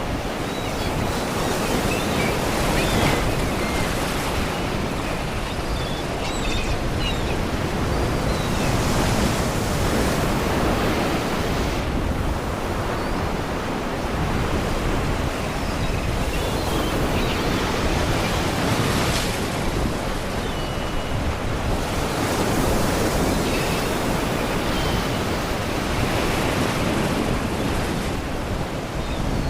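Sea waves washing against rocky shore, the surge swelling and easing every few seconds. Faint, short calls of seagulls come through now and then.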